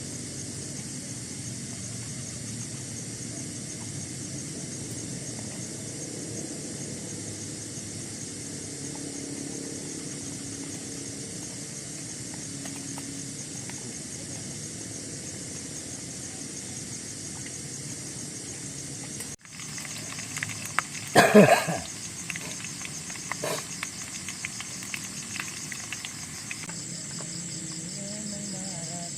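Steady chorus of forest insects trilling high and continuously. The sound cuts out abruptly about two-thirds of the way through, and a brief loud voice-like call or cry follows, then a few light knocks.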